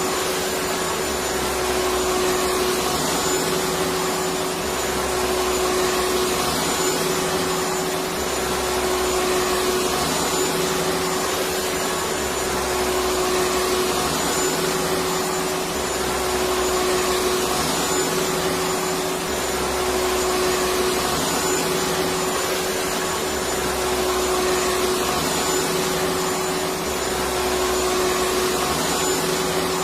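Electric vacuum cleaner running continuously: a steady whine over a broad rushing hiss of air, with a low throb underneath that swells and fades about every three and a half seconds.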